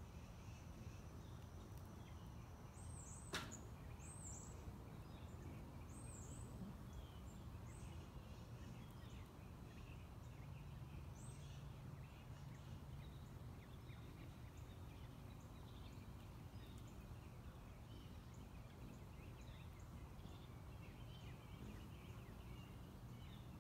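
Small backyard birds calling faintly: short, high, arching chirps repeated every second or two, with softer scattered calls beneath, over a low steady rumble. A single sharp click about three seconds in.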